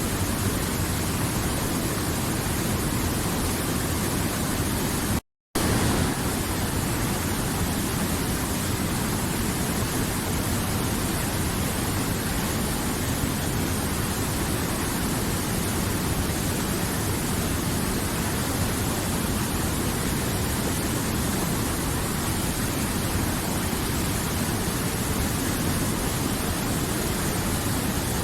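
River water flowing, a steady even rush. It cuts out completely for a fraction of a second about five seconds in.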